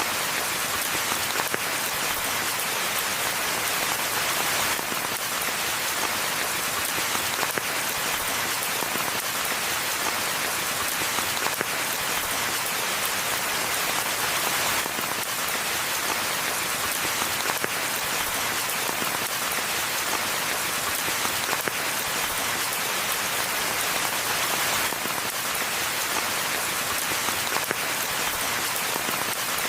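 Steady rain falling, a dense, even hiss of countless drops with individual drop hits ticking through it.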